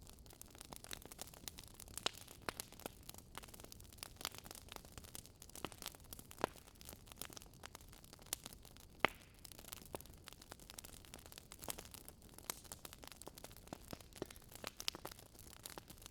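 Wood burning in a bonfire, crackling softly: irregular sharp pops and snaps, several a second, over a faint hiss, with a few louder pops, the loudest about nine seconds in.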